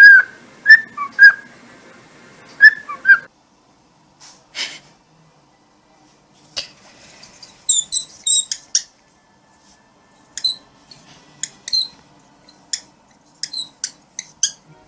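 Pet parrot whistling a run of short notes that slide in pitch, then after a pause a scatter of short, very high bird chirps.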